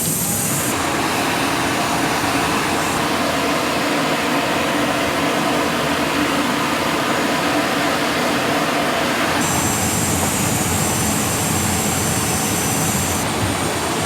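A C-17 Globemaster III's four turbofan engines running, heard as a steady, even rushing noise that holds one level throughout.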